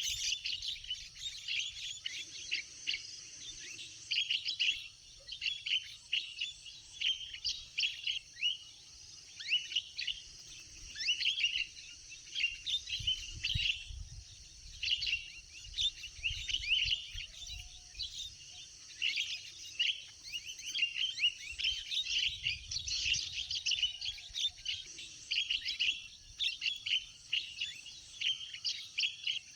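Birds chirping and calling without pause, many short sharp calls overlapping, with a faint low rumble swelling twice.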